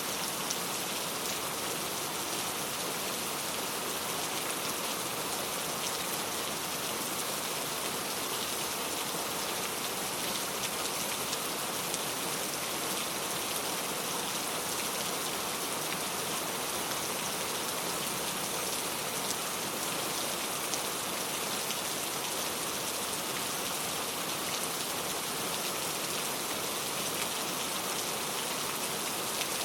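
Steady rain falling, with a dense patter of drops on a surface and a hiss strongest in the high range.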